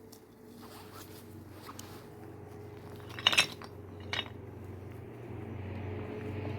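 A couple of sharp clinks of dishes or metal cookware, the loudest about three seconds in and a lighter one a second later, over a steady low hum.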